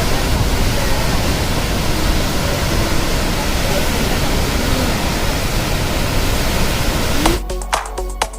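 Steady rushing roar of water pouring through a dam's open gates, with faint voices under it. About seven seconds in it cuts abruptly to electronic music with a beat.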